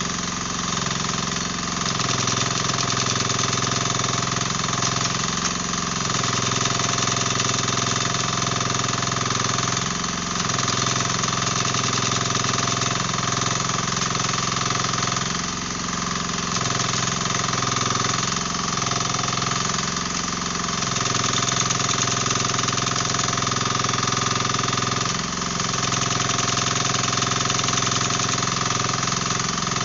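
Mini excavator's diesel engine running steadily under load, with its hydraulic breaker hammering hard ground in rapid blows.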